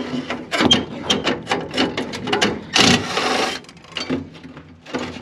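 Screws being removed from the sheet-metal burner assembly of a gas furnace: a run of small metallic clicks, knocks and rattles, with a louder noisy burst lasting under a second a little after halfway.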